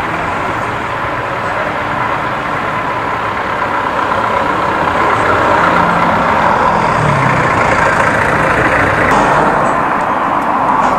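Motorcycle with a loud aftermarket exhaust pipe running steadily on the road, engine and road noise without revving.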